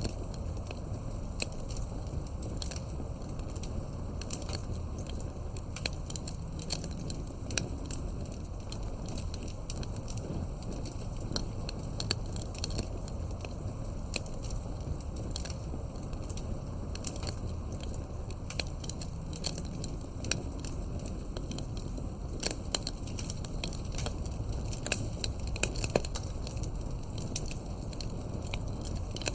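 Campfire burning, with a steady low rumble of flame and frequent irregular sharp crackles and pops from the burning wood.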